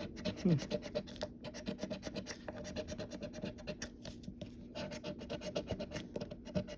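Scratch-off lottery ticket being scratched off in rapid back-and-forth strokes, several a second, with a couple of brief pauses.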